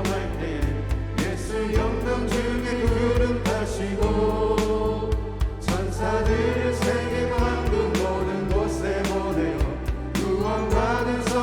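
Church praise team singing a gospel song with a band: voices together over steady bass, keyboard and a regular drum beat.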